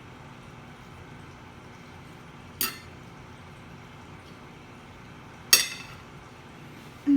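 Metal cutlery clinking against a plate twice, about three seconds apart, each clink ringing briefly.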